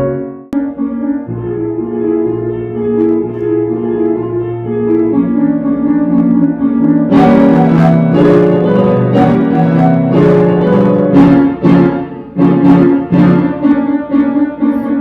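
Piano music. The notes are sustained at first, then firmer, louder struck notes and chords come in about halfway through.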